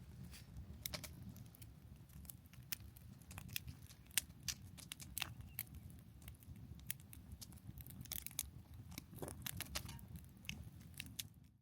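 Campfire crackling: irregular sharp pops and snaps of burning wood over a low steady rumble of the fire.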